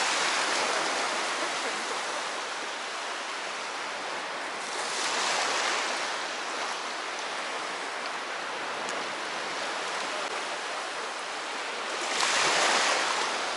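Sea surf washing onto a shallow shore: a steady hiss of water with a louder wave surging in about five seconds in and another near the end.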